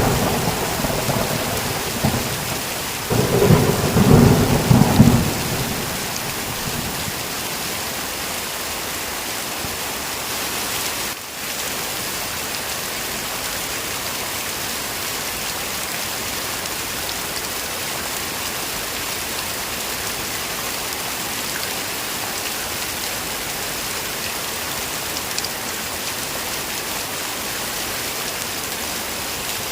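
Steady heavy rain with thunder: the tail of a thunder clap at the start, then a second rumble of thunder about three seconds in that dies away by about six seconds, leaving the even hiss of rain.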